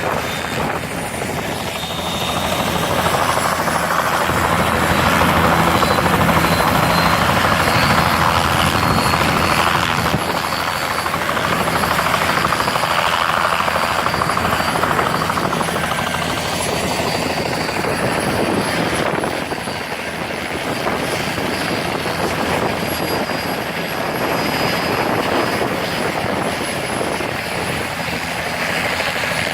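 Helicopters running close by: steady rotor and engine noise with a thin high whine over it. It grows louder about three seconds in and eases back about ten seconds in.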